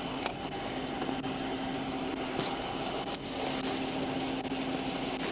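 A vehicle engine idling steadily, with a few faint light clicks.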